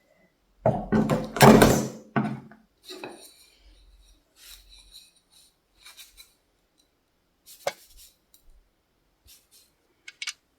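Small hard objects being handled and set down: a loud clatter of knocks and rustling about a second in, then scattered light clicks, one sharp knock, and two quick clicks near the end.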